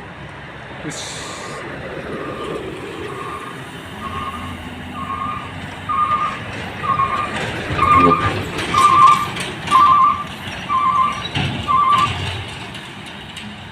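Truck reversing alarm beeping about once a second, growing louder, over a diesel truck engine revving hard on the climb. A short hiss of air comes about a second in.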